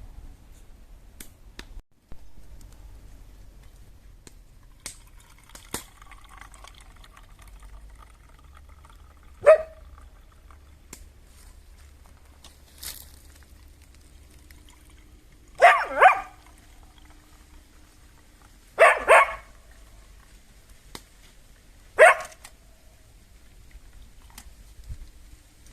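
A dog barking: six short barks spread over the stretch, two of them single and two quick pairs.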